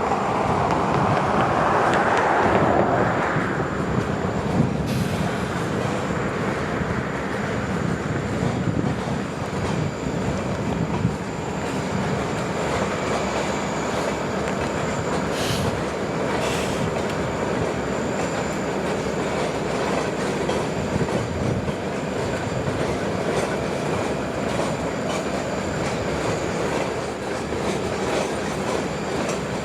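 Freight train cars rolling by on the rails: a steady rumble of steel wheels, with a few sharp clanks along the way.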